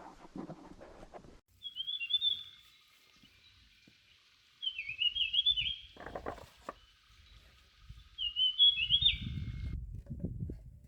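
A small bird sings three short, quickly warbling high phrases about three seconds apart. A few knocks come about six seconds in, and low rustling and thumping near the end.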